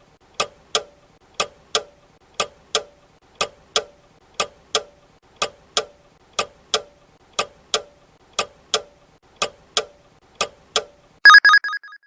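Countdown-timer sound effect: a clock ticking tick-tock, one pair of ticks about every second. Near the end comes a short, loud ringing of a few quick strikes, the alarm that signals the answer time is up.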